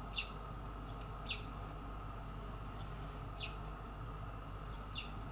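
A small bird calling in short, high chirps that fall in pitch, four in about five seconds, over a steady low hum.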